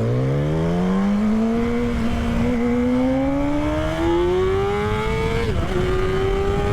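Motorcycle engine accelerating hard under full throttle, its pitch climbing steadily as the revs rise. About five and a half seconds in, the pitch drops briefly for an upshift, then climbs again.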